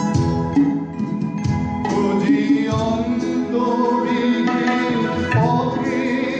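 Live accompaniment to a Bengali film song playing an instrumental passage: a melodic line over steady hand-drum beats.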